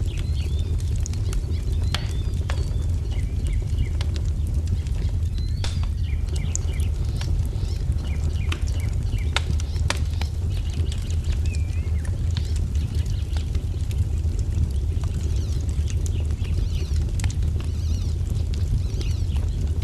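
Wood fire crackling, with scattered sharp pops over a steady low rumble, while small birds chirp and twitter in short calls throughout.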